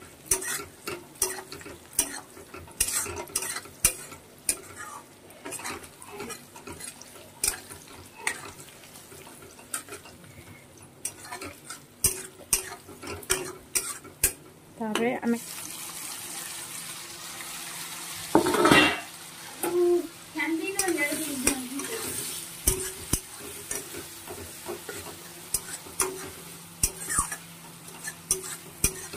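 Metal spatula stirring and scraping onions frying in oil in a steel kadai, with many short clicks and scrapes against the pan. About halfway through a louder steady sizzle sets in as chopped tomatoes go into the hot oil, with one loud burst a few seconds later.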